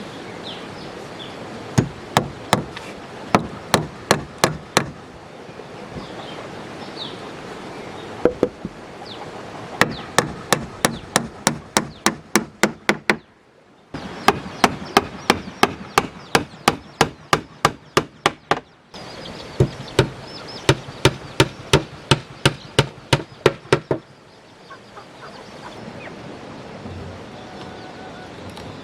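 Hammer blows on wood, about three a second in several runs, driving nails; each run stops abruptly.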